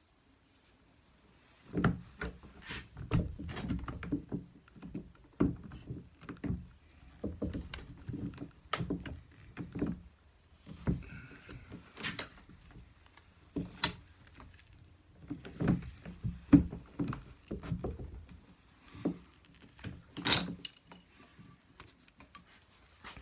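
Hand-cranked Durston rolling mill at work as 14k gold wire is rolled flat: irregular metallic clunks and knocks with a low rumble from the cranking, starting about two seconds in.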